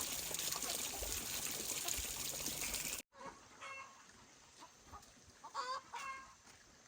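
Water running or pouring steadily for about three seconds, then after an abrupt cut, chickens clucking a few times with short, high calls.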